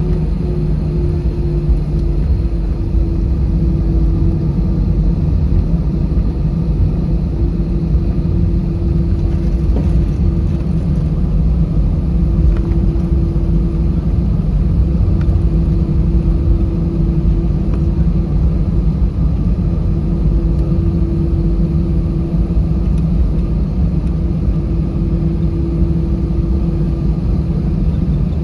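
Cabin noise of an Airbus A320 taxiing: the engines running at idle with a steady low rumble and a steady hum.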